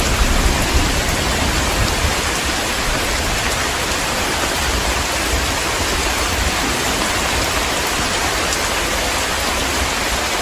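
Heavy rain falling in a steady, dense hiss. A low rumble of thunder dies away in the first two or three seconds.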